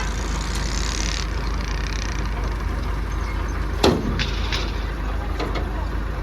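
A heavy vehicle's engine running steadily, with a hiss in the first second and one loud knock about four seconds in, followed by a few lighter clicks.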